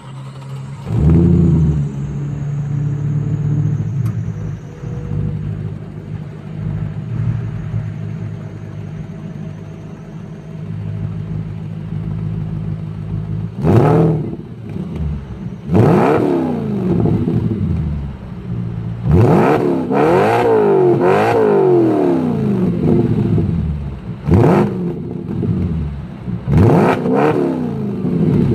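Audi S4 B7's 4.2-litre V8 through an exhaust with the resonators removed and the exhaust valves open. It idles steadily, with a quick blip about a second in, then is free-revved in short blips from about 14 seconds on, several in quick succession around 19 to 22 seconds, each rev rising and falling back to idle.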